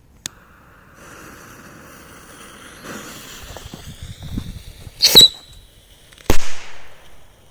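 Small whistling fireworks going off: a faint whistle slowly rising in pitch over a crackling fizz, then two sharp bangs a little over a second apart, the second trailing off in a hiss. They are weak, which the launcher puts down to a defective batch of whistlers.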